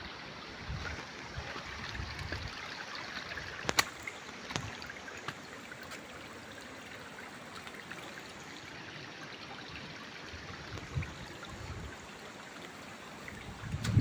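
Small forest stream trickling steadily. There is a sharp click about four seconds in and a few fainter knocks.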